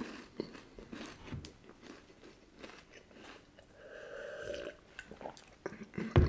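Close-miked chewing of a chocolate-coated wafer bar, with soft crunches and wet mouth clicks. About four seconds in, a swallowing sound lasting about a second as he drinks from a glass mug.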